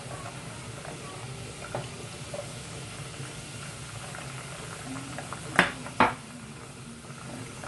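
Raisins frying in hot oil in a saucepan: a steady sizzle with small pops and crackles. Two sharp knocks come about three-quarters of the way in, half a second apart.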